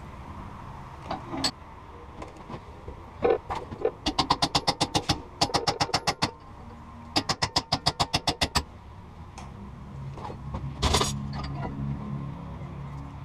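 Hammer rapping a chisel against a broken exhaust manifold bolt on a Farmall Cub, in two quick runs of ringing metal strikes about six a second. A single louder clank comes near the end. This is an attempt to knock loose a bolt that has had a slot sawn down it.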